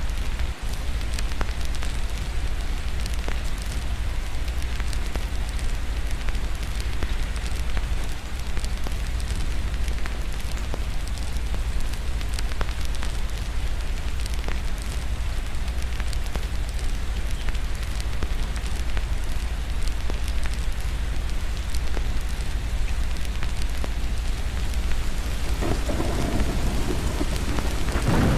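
Steady rain with a constant low rumble of thunder and many small drop ticks. The thunder swells louder a couple of seconds before the end, peaking in a sharp crack.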